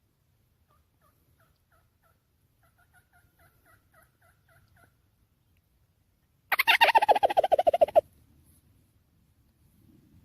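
A run of soft turkey yelps, then about six and a half seconds in a loud, rapid rattling turkey gobble lasting about a second and a half.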